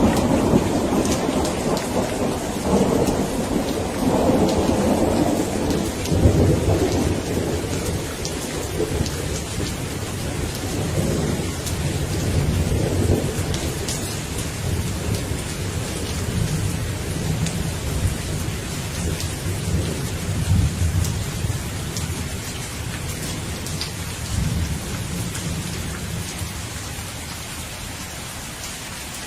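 Steady rain falling, with a long low rumble of thunder that is strongest in the first half and fades away towards the end.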